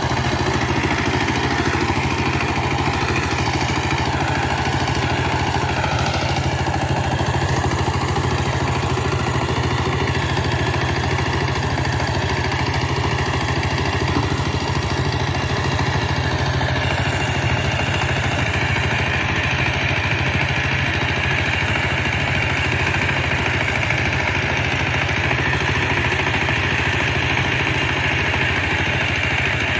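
Power tiller's diesel engine running steadily at an even speed.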